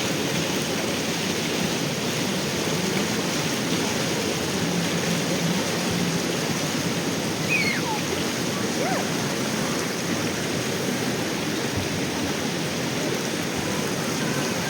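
Steady rushing of flowing river water, even and unbroken, with a few faint short sliding calls over it about halfway through.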